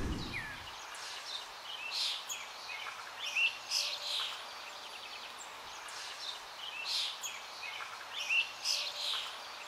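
Small birds chirping and twittering, with clusters of short high calls every second or two over a steady outdoor hiss. A low rumble fades out in the first second.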